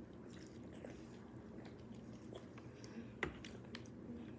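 Soft, wet chewing and mouth sounds of a person eating close to the microphone, with scattered small clicks and one sharper click about three seconds in.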